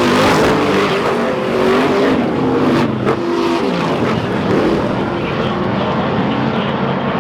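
Off-road race trucks' engines revving hard as a pack races, several engine notes rising and falling over one another, with a brief sharp crack about three seconds in.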